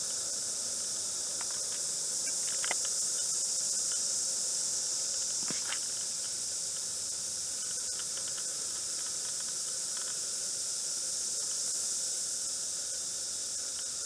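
Chorus of cicadas singing, a steady high-pitched hiss without pauses, with a couple of faint ticks about three and five and a half seconds in.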